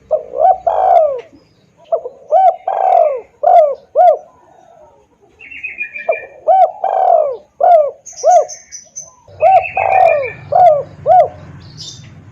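Spotted dove (tekukur) lure call: loud, repeated cooing phrases, each a few short coos with one longer drawn-out coo, heard four times. Brief higher chirps and a trill from other birds come in between.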